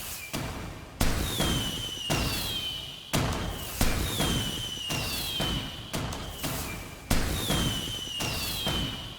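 Fireworks going off about once a second, each a sharp bang that trails off. About every two seconds a whistle slides down in pitch and then holds briefly.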